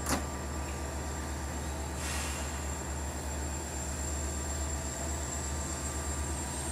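Passenger train at a station with a steady low mechanical drone, a sharp click just after the start and a brief hiss about two seconds in.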